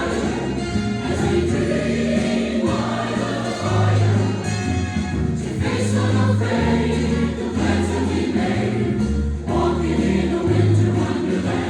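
Choir singing a Christmas number with instrumental accompaniment, held low bass notes underneath the voices.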